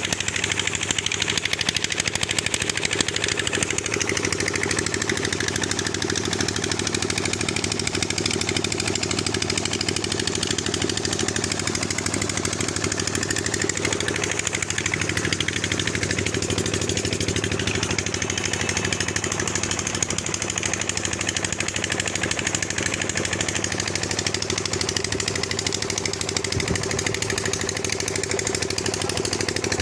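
Diesel engine driving a tubewell pump, running steadily with a fast, even knocking beat.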